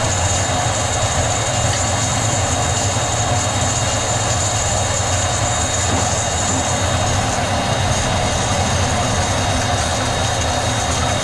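Sawmill machinery running with a steady, even drone and hum.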